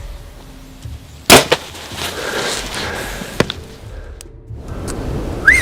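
A single sharp, loud shot about a second in, the crack of a deer-hunting shot, followed by a smaller knock and, later, another brief click. A short rising tone sounds near the end.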